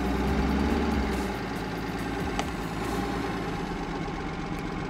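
BMW E36 engine idling with a rapid ticking from the top end, which the owners feared meant oil was not getting through the sludged motor.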